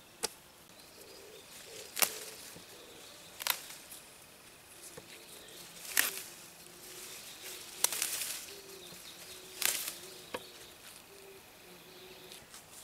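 Scattered short rustles and clicks, about one every one to two seconds, from things being handled.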